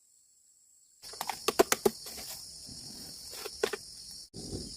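Sharp clicks and knocks in quick clusters, over a steady high-pitched chirring like an insect chorus, starting suddenly about a second in.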